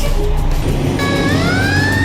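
Vehicle sound effect: a low engine rumble with noise, joined about halfway through by a siren-like wail that winds up in pitch and levels off.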